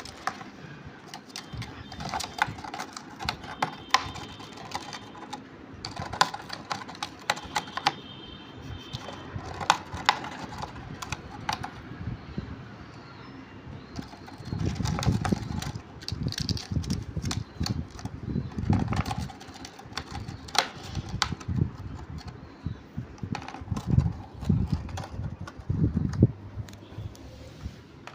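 Cockatiel's beak crunching and tearing cardboard: irregular crisp clicks and snaps, with heavier, duller thumps of the cardboard being tugged and knocked in the second half.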